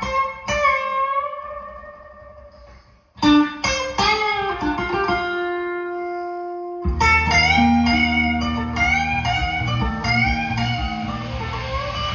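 Blues guitar solo of single plucked notes, some bent in pitch, with a long held note about three seconds in. About seven seconds in, a low bass line comes in underneath.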